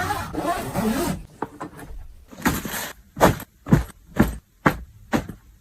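Packing handling sounds: about a second of rustling, then a run of six short, sharp rasping strokes about half a second apart.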